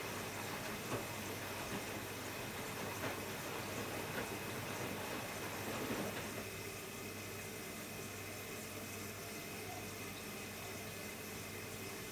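Hotpoint-Ariston Aqualtis washer-dryer running with water rushing into the machine as it fills, over a steady hum. About six seconds in, the rushing becomes quieter.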